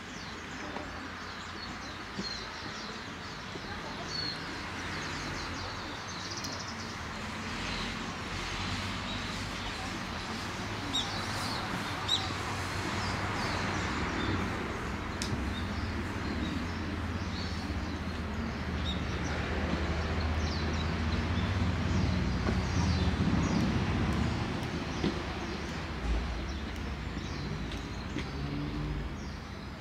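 Small birds chirping now and then over a steady rushing hiss, with a low rumble that swells through the middle and eases near the end.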